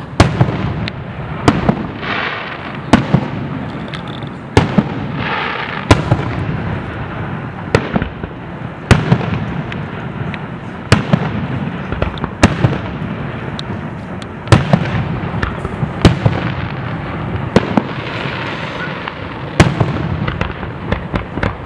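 Fireworks display: sharp booms of bursting shells about every one to one and a half seconds, with rumbling echoes and crackle filling the gaps.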